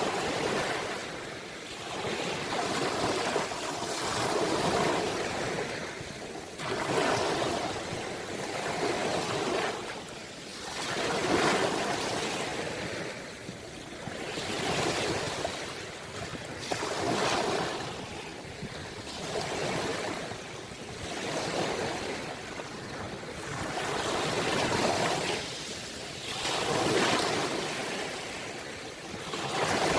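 Ocean waves surging and washing in, the surf swelling and falling every two to three seconds.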